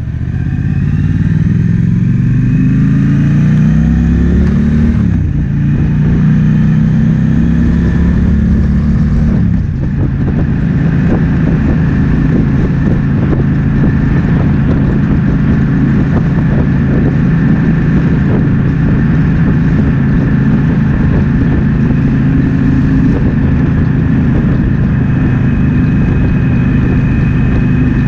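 Triumph Speed Twin 1200's parallel-twin engine accelerating through the gears, with two upshifts in the first ten seconds, then running at a steady cruise. Wind rushes over the microphone throughout.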